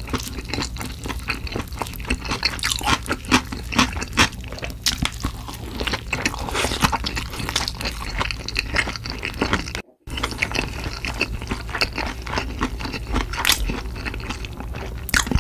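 A person chewing food with crisp crunches, close to the microphone, with a short break in the sound about ten seconds in.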